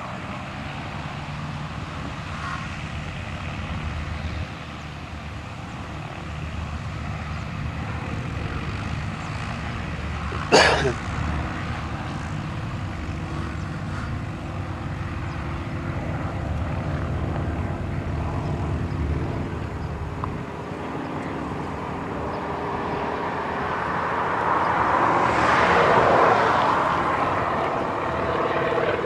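Light propeller aircraft engines running as the planes take off, a steady drone that swells louder in the last few seconds as one passes close. A single sharp click a third of the way in.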